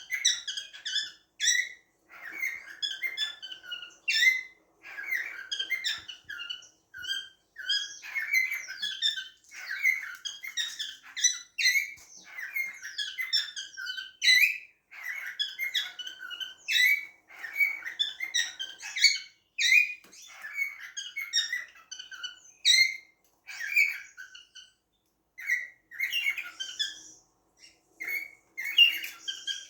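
Cockatiels chirping and squeaking in a continuous stream of short, high calls.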